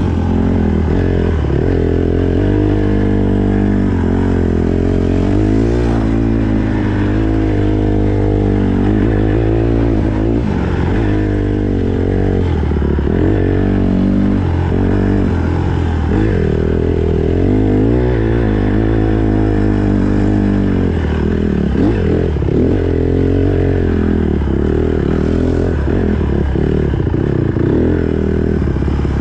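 Small single-cylinder four-stroke dirt bike engine being ridden on a trail, its pitch rising and falling over and over as the throttle is opened and rolled off.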